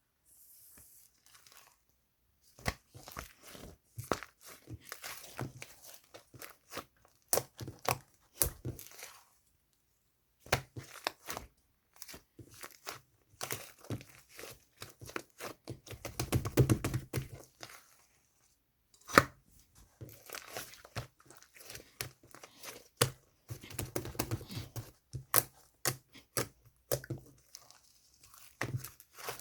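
Hands squeezing, stretching and pressing slime, making quick clusters of sticky clicks and crackles, with two short pauses.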